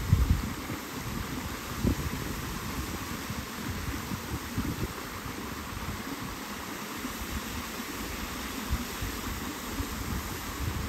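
Rushing water from a river or waterfall, a steady hiss, with wind buffeting the microphone in low rumbling gusts.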